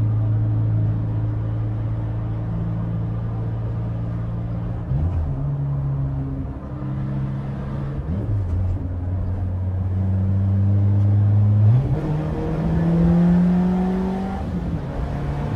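Peugeot 206's four-cylinder engine with a straight-piped exhaust and open intake, under way at a steady pitch that steps up and down a few times, then climbs in pitch as it accelerates about twelve seconds in and drops again near the end.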